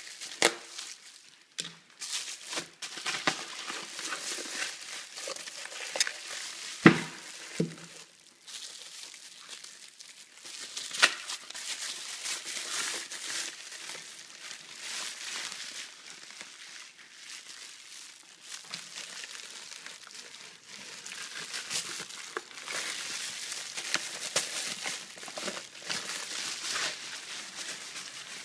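Box and packaging being opened and unwrapped by hand: ongoing crinkling and rustling of wrapping, with scattered clicks and knocks, the loudest a sharp knock about seven seconds in.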